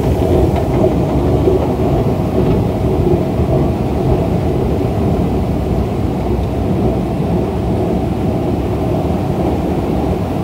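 A train running, a loud steady low rumble with a faint steady tone in it.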